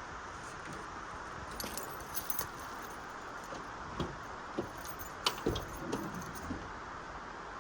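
Scattered light metallic clinks and a few soft knocks of gear being handled at a truck, over a steady rushing background.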